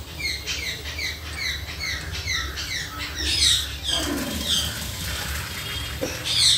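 A bird chirping: quick high falling chirps, about three a second, stopping near five seconds in and starting again near the end. Under it, parboiled rice and its cooking water pour from an aluminium pot into a strainer.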